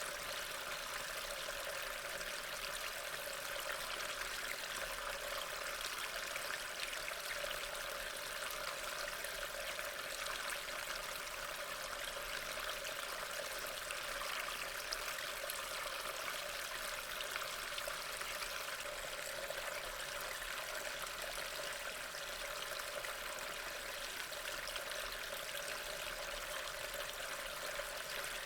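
Steady rain falling, an even hiss that does not change or pause.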